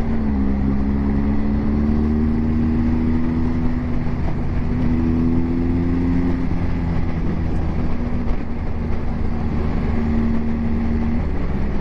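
Motorcycle engine pulling away and accelerating: its pitch rises, drops at a gear change, rises again about five seconds in, then settles to a steadier cruise.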